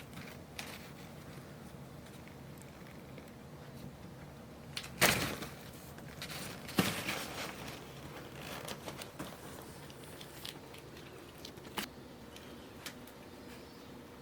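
Kittens playing indoors: scattered rustling, crinkling and light clicks of paws and toys, with two louder scuffles about five and seven seconds in.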